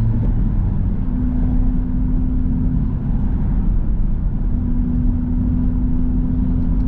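Engines idling in stopped traffic: a steady low rumble with a constant hum, its pitch shifting slightly a couple of times.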